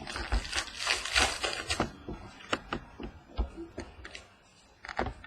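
Trading cards being handled and flipped through one after another: a stretch of rustling and sliding card stock in the first two seconds, then scattered crisp clicks and snaps as individual cards are moved.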